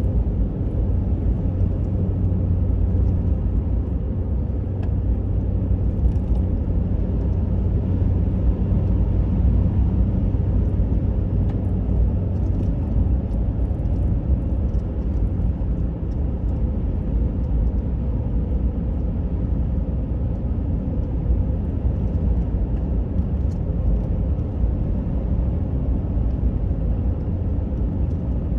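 Car interior while driving: a steady low rumble of the engine and tyres on the road.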